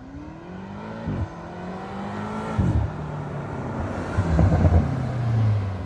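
2020 BMW M8's twin-turbo V8 accelerating hard under full throttle, its revs climbing and then dropping sharply at two quick upshifts, about a second and two and a half seconds in, before pulling up again and growing louder toward the end.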